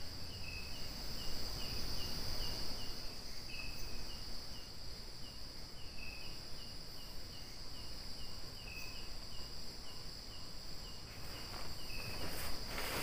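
Night insects calling: a steady high trill with a chirp repeating about three times a second. Now and then a longer, lower note joins in, all over a low rumble of outdoor noise.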